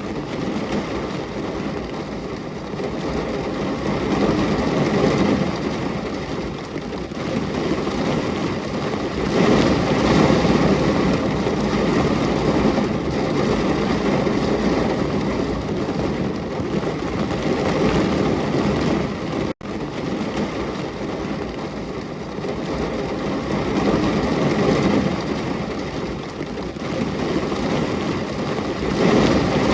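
Steady heavy rain: an even rushing hiss with a low rumble beneath, swelling louder a few times, broken by a split-second gap about two-thirds of the way through.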